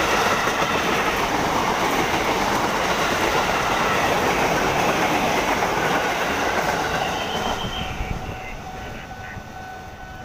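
JR 205 series electric commuter train passing close by at speed, with loud wheel-on-rail noise that fades about three-quarters of the way through as the last car goes by. A steady high tone carries on after the train has passed.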